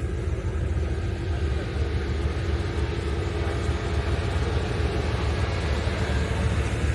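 A steady low rumble from a car engine, with no revving or sudden changes.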